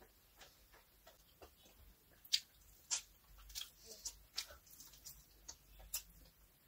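Faint, irregular mouth clicks and lip smacks of a person chewing chicken, with a few sharper ones about two to three seconds in and near six seconds.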